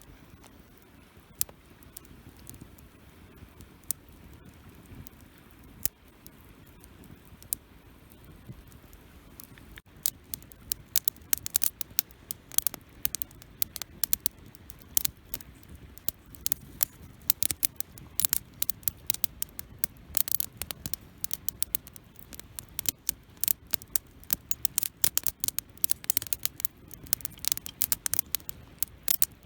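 Wood campfire crackling: scattered pops for the first ten seconds, then dense, rapid crackling from about ten seconds in.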